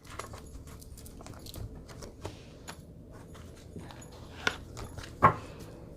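Tarot cards being shuffled and handled: a run of light clicks and snaps, with two louder snaps near the end.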